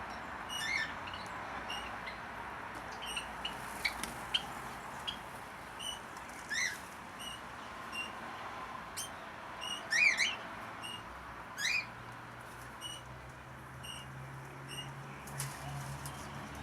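Aviary birds chirping and calling: many short high chirps repeated throughout, with a few louder rising calls, the loudest about ten seconds in.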